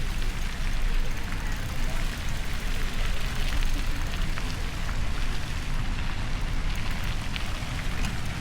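Steady rushing noise of riding a bicycle: wind buffeting the microphone with a heavy, fluttering low rumble, plus road noise and a few faint ticks.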